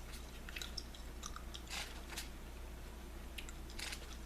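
Gum chewed close to the microphone: irregular wet smacks and clicks.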